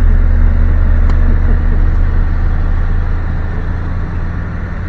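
Low, steady rumble of a slowly moving car heard from inside the cabin, engine and road noise, growing quieter over the last couple of seconds.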